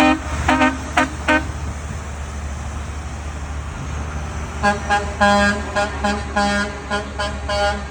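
Truck horns tooting in short blasts over the steady low rumble of truck engines: a few toots near the start, then a quick run of toots from about five seconds in.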